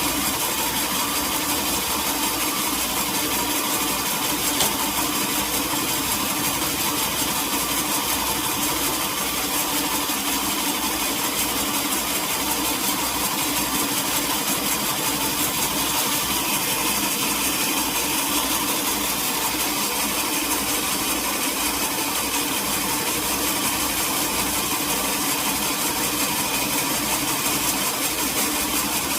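Sawmill machinery running steadily, an engine-driven saw holding an even, unbroken drone.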